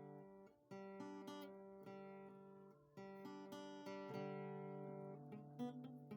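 Background music of gently plucked and strummed acoustic guitar, a new chord struck about every one to two seconds and left to ring down.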